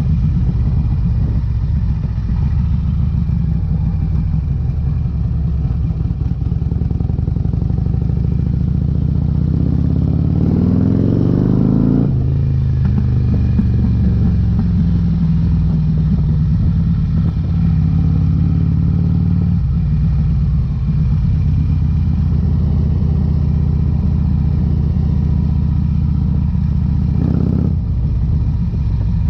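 2008 Harley-Davidson Electra Glide's air-cooled V-twin running through Vance & Hines exhaust pipes under way. About ten seconds in, the revs climb steadily and then drop sharply at a gear change, and the engine settles back to a steady pitch, with smaller changes in speed later on.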